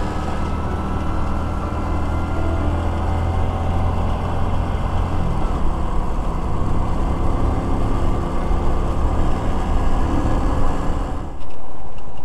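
Honda Pop 100 motorcycle engine running at a steady road speed, with wind rush on the microphone. About a second before the end the sound jumps suddenly louder.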